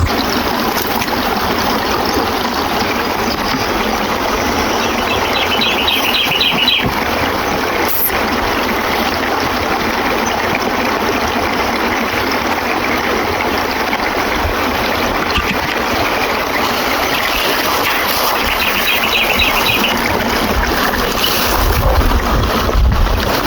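Running water rushing steadily, like a stream or trickle flowing. A rapid run of high chirps is heard twice, and a low rumble comes near the end.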